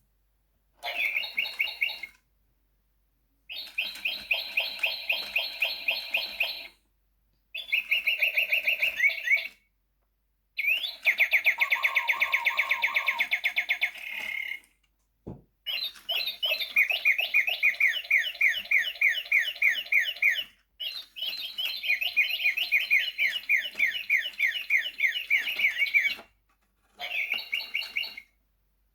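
Sound-activated toy singing birds playing recorded bird chirps and trills: about seven bursts of rapid repeated chirps, each one to five seconds long and cut off abruptly into silence. A single sharp click about halfway through.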